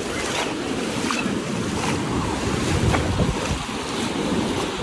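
Ocean surf breaking on a beach, with wind buffeting the microphone in gusts.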